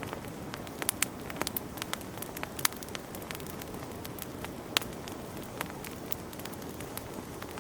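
Wood fire burning in a fireplace: a steady low rush of flame with irregular sharp crackles and pops, a few louder snaps among them.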